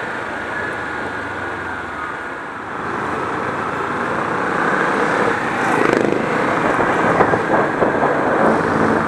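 Kawasaki Ninja 400 ridden through city traffic, its parallel-twin engine and the surrounding road noise heard as a steady rushing hum that grows louder about three seconds in and again near six seconds.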